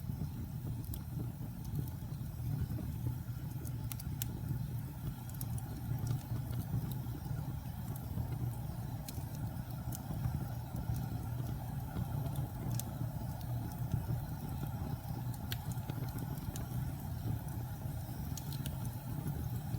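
Wood fire burning in a fireplace: a steady low roar with irregular sharp crackles and pops.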